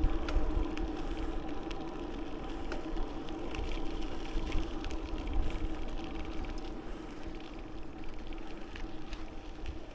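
Bicycle riding noise: wind rumbling on the microphone, a steady hum and scattered light ticks and rattles, easing off a little toward the end.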